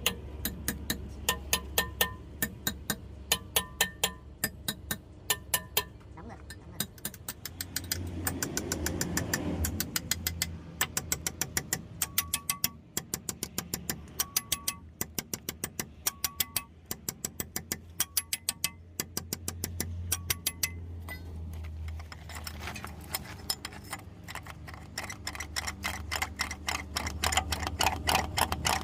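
Quick bursts of sharp metallic taps or clicks, several a second with short pauses, a few of them ringing briefly, over a low steady hum.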